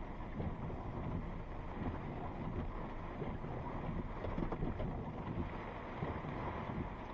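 Strong thunderstorm winds rushing and buffeting the microphone, a steady gusty noise with frequent low thumps.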